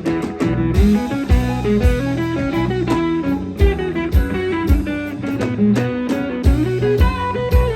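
Live band playing: guitar over bass and a drum kit keeping a steady beat.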